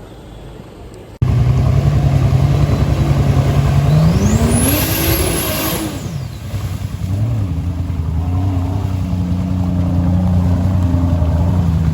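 Off-road vehicle engine running loudly and steadily, revved up for about two seconds near the middle with a high whine that rises and falls with it, then settling back to a steady run. It starts abruptly about a second in.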